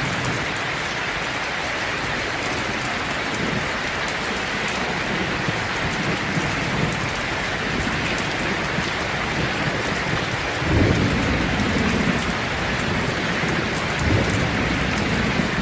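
Steady, heavy rainfall with low rolls of thunder: one swells about two-thirds of the way in and lasts a couple of seconds, and a smaller one comes near the end.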